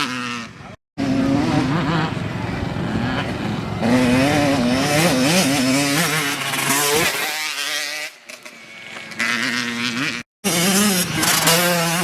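Dirt bike engines racing, revving up and down repeatedly as the riders accelerate and shift, with several bikes overlapping at times. The sound cuts out abruptly twice.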